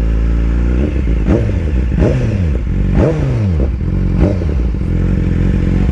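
BMW S1000RR's inline-four engine blipped about four times, roughly a second apart, each a sharp jump in revs that falls away again, as when the throttle is blipped to shift gears.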